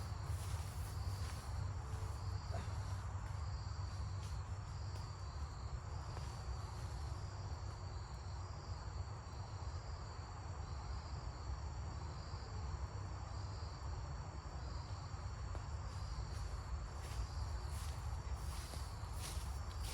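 Forest insects chirping: a steady high trill with a pulsed chirp repeating at an even pace, over a low constant rumble.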